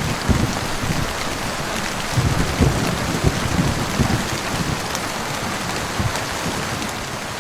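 Steady heavy rain pattering on a surface, with low rumbles of thunder swelling and fading, mostly in the first half.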